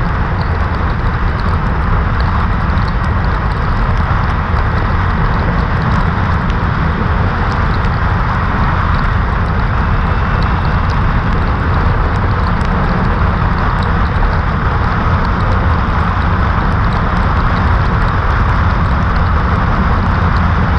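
Steady roar of wind and road noise while riding a Kawasaki Ninja 400 motorcycle at speed, with its parallel-twin engine running underneath.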